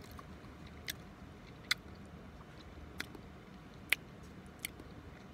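A person chewing french fries close to the microphone: wet mouth smacks and lip clicks, about five sharp ones roughly a second apart, over a faint low hum.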